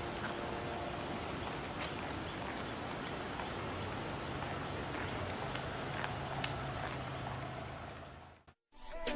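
Car on the move: steady road and engine noise with a low hum, fading out near the end.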